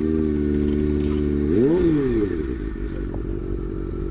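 Motorcycle engine running at a steady note, revved once about a second and a half in with a quick rise and fall in pitch, then settling back to a steady lower note.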